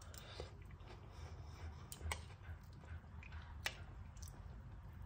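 A person quietly chewing a soft mouthful of bean paste soup with rice and egg, with a few faint, sharp clicks, the clearest about three and a half seconds in.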